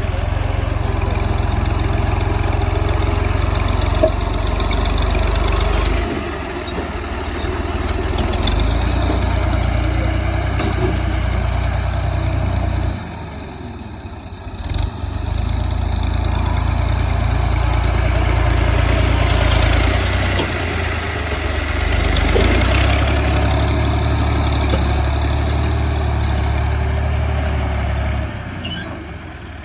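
Diesel tractor engine running with a steady low rumble that eases off briefly about 13 seconds in and again near the end.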